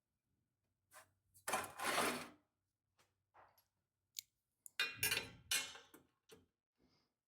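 Metal clinks, clanks and scrapes as steel tube pieces and the pie-cut jig are handled and repositioned: a handful of short separate bursts, the loudest about a second and a half in and near five seconds in.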